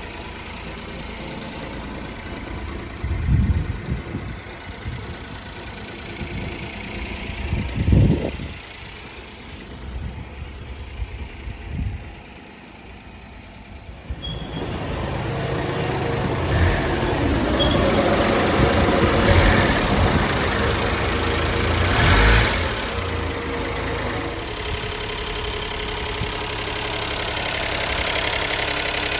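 Honda Acty truck's small three-cylinder engine idling, with two brief louder bursts in the first half. About halfway through it gets louder and fuller and stays that way.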